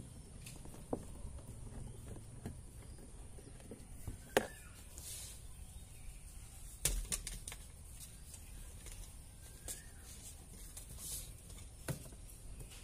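Faint handling noise while working on a car door: scattered light clicks, taps and rustles, with two sharper clicks about four and seven seconds in.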